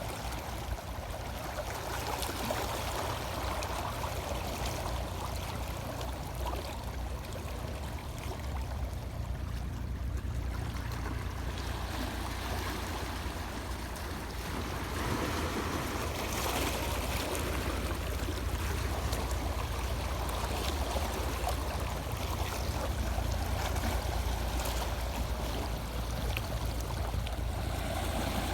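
Sea waves washing on the shore: a continuous rush of water that swells and eases every several seconds, over a steady low rumble.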